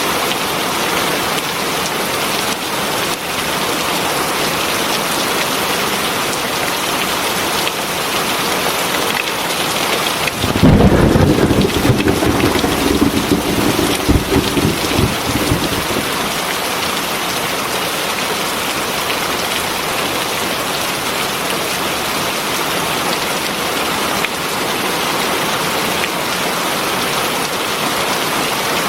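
Heavy rain falling steadily, with a clap of thunder about a third of the way in that rumbles loudly for several seconds and then fades back into the rain.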